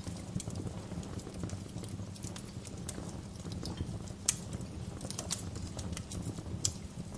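Wood fire crackling in a fireplace: a steady low rumble of burning, with quick irregular snaps and pops over it and two sharper pops, one a little past the middle and one near the end.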